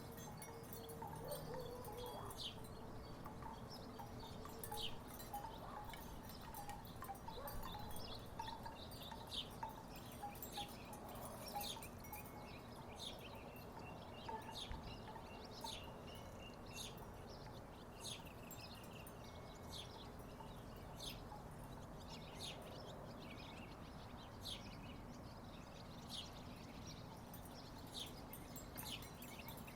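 Wooden tiki wind chimes knocking together irregularly in the breeze: many short, hollow clacks, some in quick clusters, over faint low background noise.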